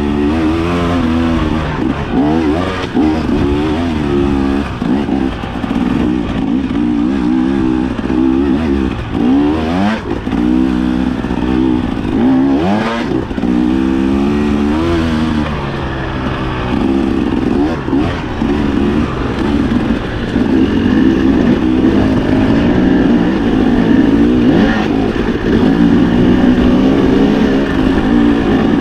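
Dirt bike engine revving up and down constantly as it is ridden over rough, rocky singletrack, with the throttle opened and rolled off again and again. It dips briefly about halfway and runs harder near the end.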